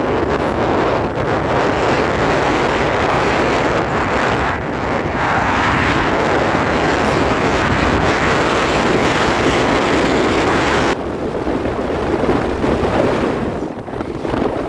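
Train passing close by: a loud, steady rumbling rush of wheels on rail, with wind on the microphone. The sound drops abruptly about eleven seconds in and fades near the end.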